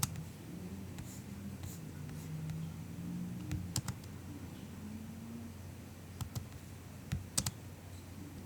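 Soft MacBook keyboard keystrokes, sparse and in small groups: one at the start, a few about three and a half seconds in, two around six seconds and a short cluster near the end. A faint low hum runs underneath.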